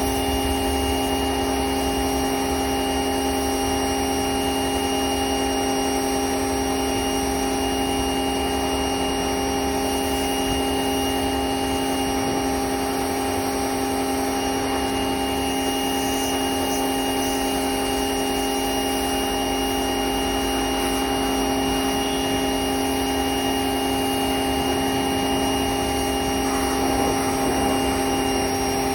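A motor running steadily with a constant, even hum and no change in speed.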